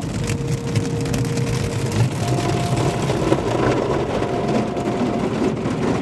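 Automatic car wash heard from inside the car: the steady rumble of the wash machinery, with water and brushes working on the bodywork. A faint steady hum runs underneath and steps up in pitch about two seconds in.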